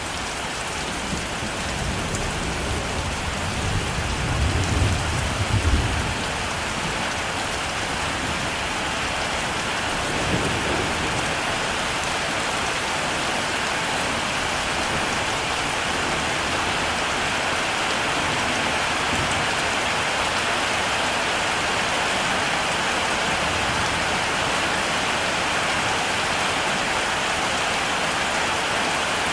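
Steady heavy rain pouring down, with a low roll of thunder that builds about three seconds in and fades away around six seconds, and a faint further rumble near ten seconds.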